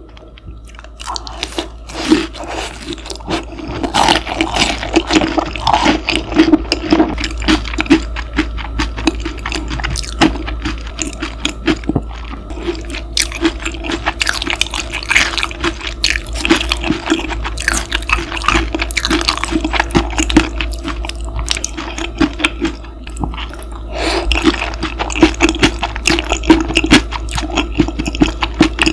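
Close-miked chewing of a bite of breaded pork cutlet topped with mayonnaise macaroni salad: wet, crunchy mouth sounds and clicks, starting about a second in. Under it runs a steady low mechanical hum, accidentally recorded.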